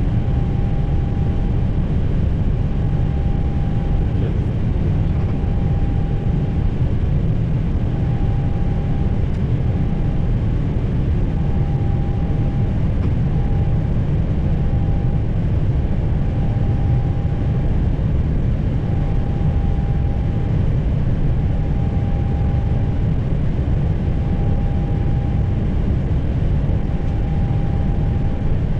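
Steady low rumble on an Airbus A320's flight deck while taxiing, from the engines and airflow, with a faint short tone that repeats every second or two.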